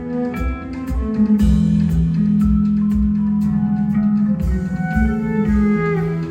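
Live rock band playing: sustained bass notes and guitar over a kick drum beating about twice a second, with a cymbal crash about a second and a half in.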